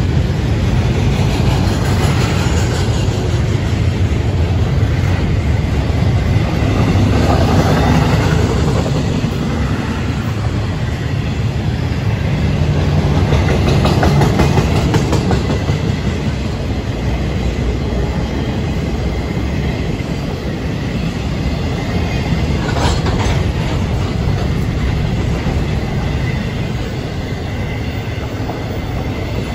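Intermodal freight train cars rolling past at speed: a steady noise of steel wheels on the rails, growing slowly quieter toward the end.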